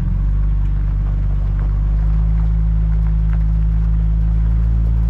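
A classic car driving, its engine and tyres making a steady low drone.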